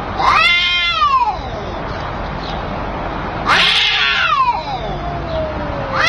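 Domestic cat giving two loud, drawn-out meows, each rising and then falling in pitch; the second is longer and trails off slowly, and a third begins at the very end.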